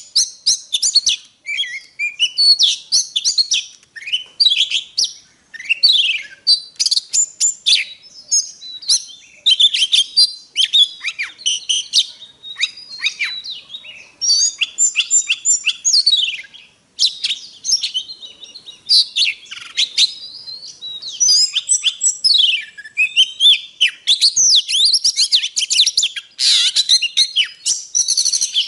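Oriental magpie-robin singing a long, varied song of rapid whistles, sliding notes and sharp chips, broken only by a couple of brief pauses.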